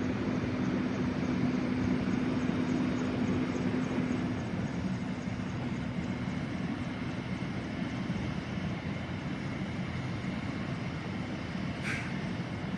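Medical helicopter running on the ground, a steady engine and rotor drone. A steady hum in it fades out about four seconds in, and there is one brief click near the end.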